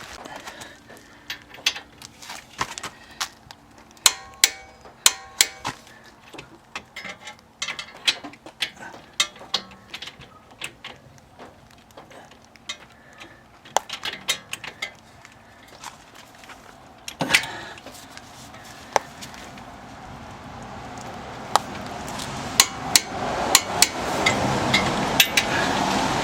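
Irregular metallic clinks, taps and knocks of hand tools and steel parts being handled during strut and brake-line bracket work, some with a short ringing tone. A hiss builds up over the last few seconds.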